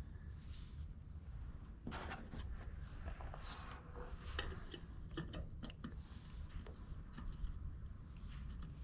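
Faint handling noises of small parts: scattered light clicks and rubbing as a headlight bulb and its fittings are worked by hand, over a low steady rumble.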